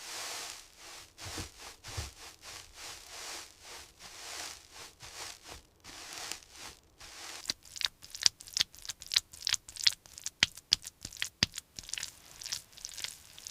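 Repeated scraping and crunching strokes of hand work, soft and spaced at first, then quicker and sharper from about seven seconds in.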